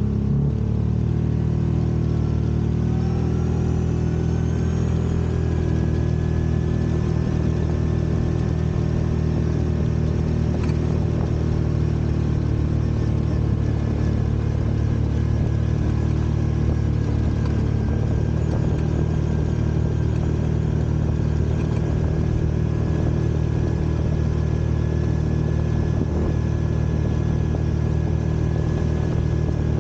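Side-by-side UTV engine running steadily while driving, with a whine that rises over the first few seconds and then holds even.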